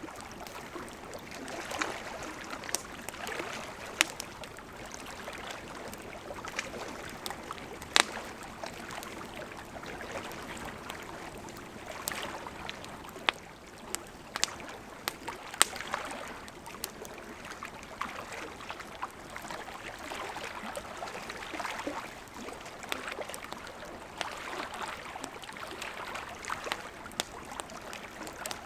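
Campfire crackling, with sharp pops every few seconds, over the steady rush of a gently flowing river.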